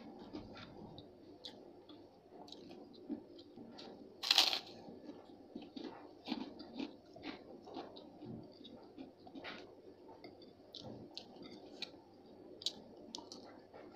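Close-up chewing and crunching of crisp food in a person's mouth, with many small crackles and one loud crunchy bite about four seconds in.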